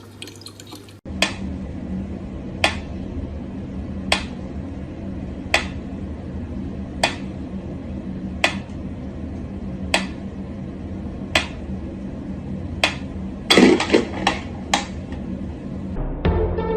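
Sharp single clicks repeating evenly about every second and a half over a steady low hum, with a brief flurry of louder knocks and clicks near the end.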